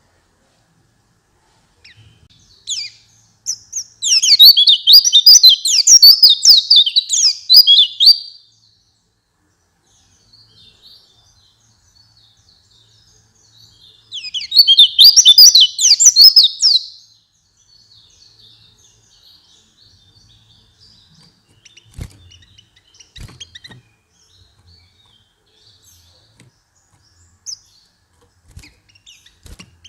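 White-eye (pleci) singing two fast, high twittering phrases, the first about five seconds long and the second about three, with soft scattered chirps between them and a few faint clicks later on.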